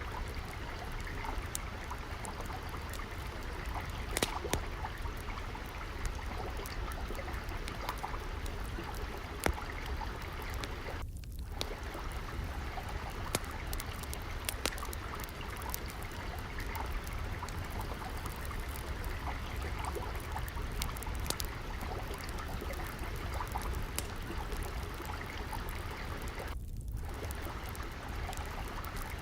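Water trickling and flowing steadily, with a wood fire crackling in scattered sharp pops throughout.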